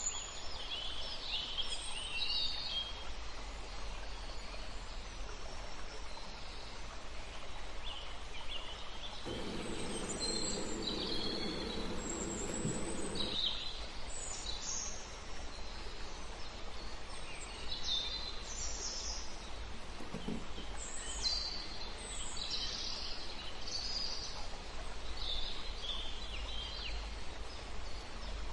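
Small birds chirping and twittering over a steady background hiss. A low hum joins in for about four seconds near the middle.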